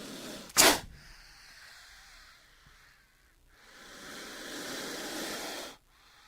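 King cobra hissing: a long breathy hiss with a sharp, loud crack about half a second in, then a second hiss that swells and cuts off abruptly near the end.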